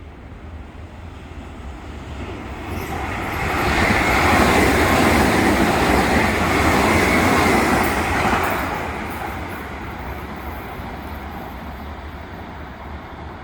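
A Nankai electric train passing close by: the rumble builds from about two seconds in, stays loud for about four seconds with a high steady whine over it, then fades away.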